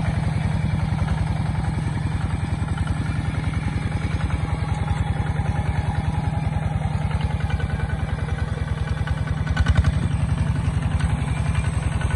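Single-cylinder diesel engine of a Kubota ZT140 two-wheel walking tractor running steadily with a fast, even firing beat. It grows briefly louder about ten seconds in.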